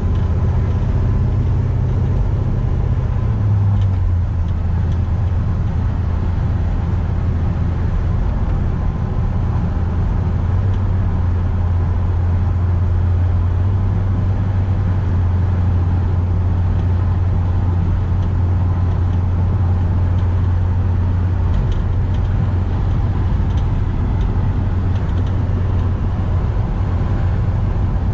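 A 1957 Chevrolet 3100 pickup's 350 small-block V8 running steadily on the road, with road noise. Its low engine hum drops a little in pitch about three seconds in, then holds steady.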